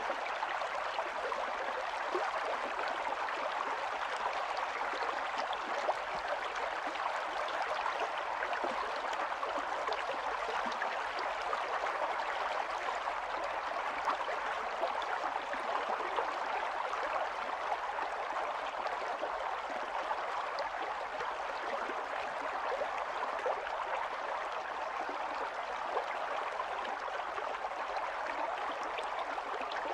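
Shallow stream running steadily, water splashing and bubbling over stones in many small flicks.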